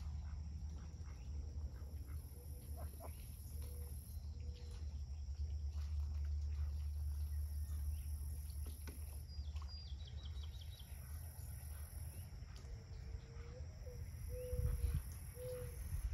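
Outdoor rural ambience: insects droning high in pulses that come and go every second or two, over a low steady rumble, with a few short faint calls in the second half.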